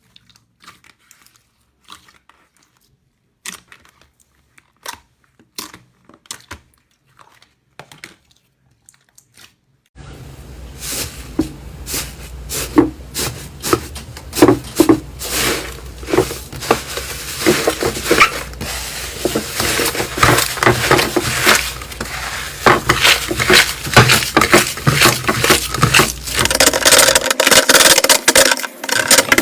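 Slime being handled and squished, making sparse, faint pops and crackles at first. About ten seconds in it switches suddenly to a much louder stretch of dense, irregular crackling and popping.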